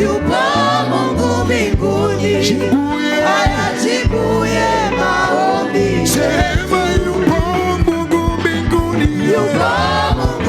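Live gospel praise-and-worship music: a choir of voices singing a Swahili worship song over a band's steady bass and drums.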